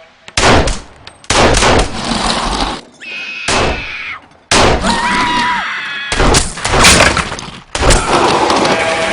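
A rapid series of loud gunshots and crashes, with glass shattering among them.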